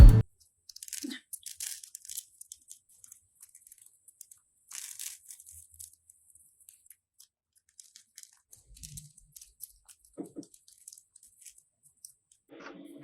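Faint, scattered crunching and crackling sounds, short and irregular, thinning out after the first half.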